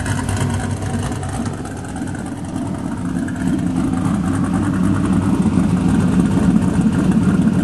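Exhaust of a 1998 Pontiac Trans Am's LS1 V8, fitted with a 226/226 cam, long-tube headers, a catless off-road Y-pipe and a Magnaflow muffler, running steadily and getting louder from about three seconds in.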